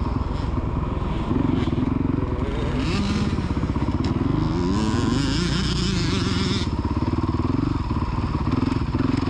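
Dirt bike engine running steadily, its revs rising and falling several times in the middle as it rides on.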